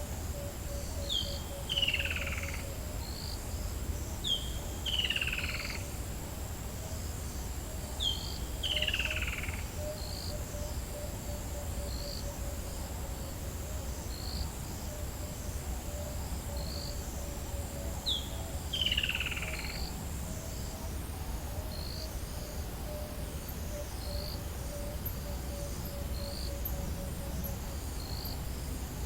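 African bush dawn chorus. One bird repeats a loud call that falls steeply in pitch, five times at uneven gaps, over a low, steady pulsing trill. Small high chirps repeat throughout, and a thin, steady high-pitched insect tone cuts off a little past two-thirds of the way through.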